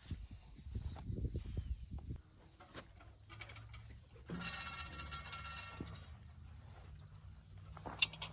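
Hand work on a hay wheel rake's tooth bars: rustling and knocking for the first two seconds, then two sharp clicks near the end. Insects chirp steadily in the background.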